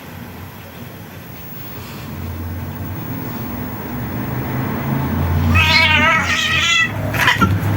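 Domestic cat giving one long, wavering meow, with a short sharp sound just after it, over a steady low rumble.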